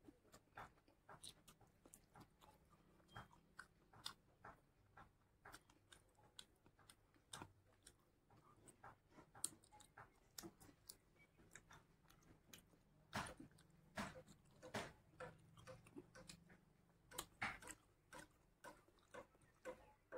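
Close-up sounds of a man eating rice and curry by hand: soft, irregular chewing, smacking and crunching, busier and louder for a few seconds in the second half.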